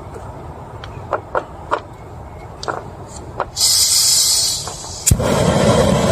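Steady rain with several light knocks and taps, then a hiss lasting about a second. A sharp crack about five seconds in is followed by much louder, heavy rain.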